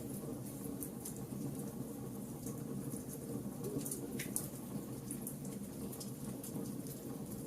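Wood fire burning: a steady low rush of flames with scattered sharp crackles and pops from the wood, one stronger pop a little past the middle.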